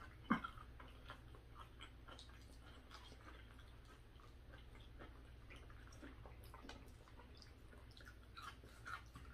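Faint chewing and mouth sounds of people eating, with small scattered clicks from handling food on skewers.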